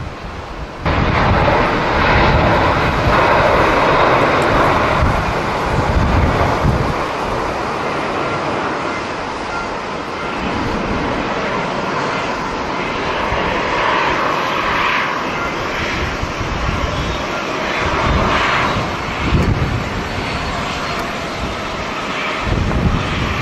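Jet airliner engines running steadily, with gusty wind buffeting the microphone in irregular low thumps.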